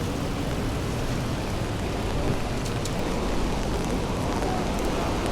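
Heavy rain falling: a steady, dense hiss with a heavy low rumble and a few faint ticks of drops.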